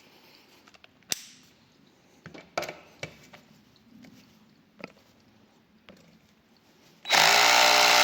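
Parkside PABS 20 Li G8 cordless drill driving a 3.9 x 30 mm screw at clutch setting 12, running loud and steady for about a second near the end and driving the screw fully flush. Before it come a few faint separate clicks.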